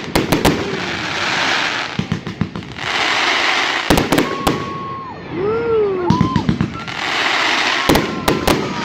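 Fireworks going off: clusters of sharp bangs roughly every four seconds, alternating with long spells of crackling hiss.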